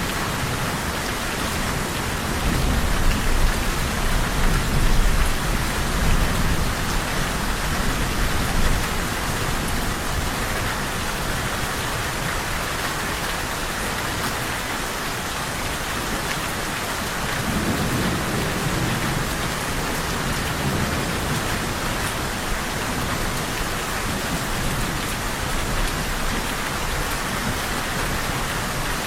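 Steady rain falling in a thunderstorm, with low rolling thunder rumbling twice: a longer rumble in the first third and a shorter one past the middle.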